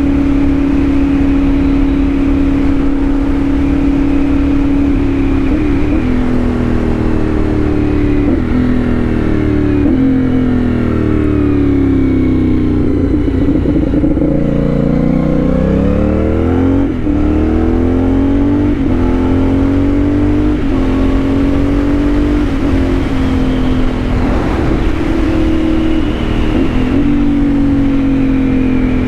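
CFMOTO 450SS parallel-twin engine through an aftermarket slip-on exhaust, heard while riding. It holds a steady note, then drops in pitch over several seconds as the bike slows, with a few breaks at gear changes. Around the middle it climbs back up and settles into a steady cruise, with wind rumble underneath.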